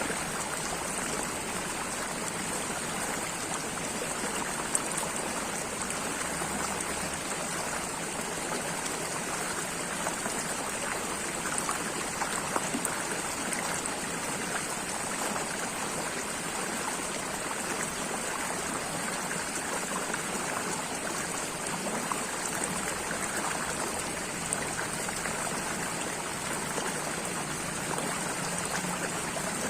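Steady running water: a stream flowing and trickling, an even rush with a few small splashes.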